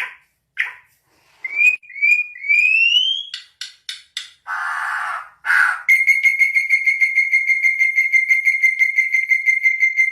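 Bird whistling: a few short rising whistled notes, two hissy bursts, then one long high whistle that pulses rapidly for about four seconds.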